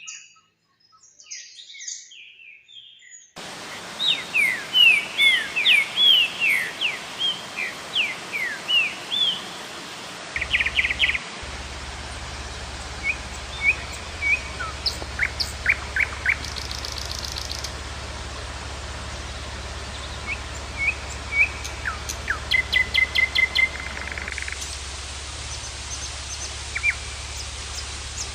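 Several songbirds chirping and singing: bursts of short falling whistled notes and quick trills over a steady even hiss that switches in about three seconds in. A steady low hum joins underneath about ten seconds in.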